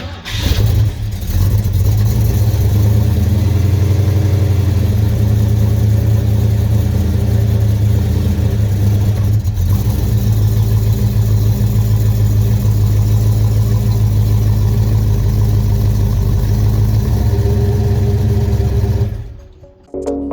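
A motor running steadily with a low, rapidly pulsing rumble and a faint hiss, which cuts off about nineteen seconds in.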